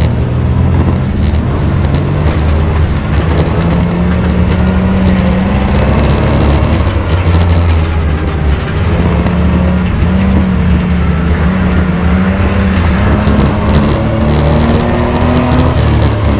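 Race truck engine running hard, its pitch rising and falling with the throttle, loud and continuous; it cuts in abruptly at the start.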